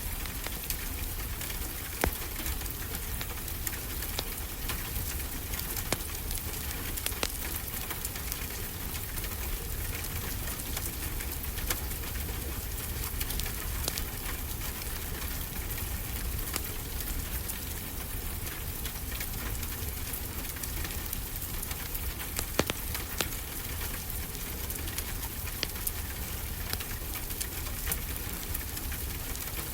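Steady rain with a wood fire crackling over it, sharp pops every few seconds, and a low rumble underneath.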